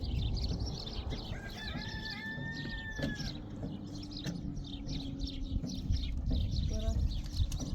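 A rooster crowing once, one long drawn-out call lasting about two seconds, with small birds chirping repeatedly and a low steady hum underneath.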